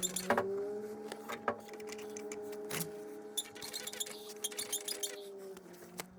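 Metal parts and tools clinking and tapping at irregular moments, over a steady hum that fades near the end.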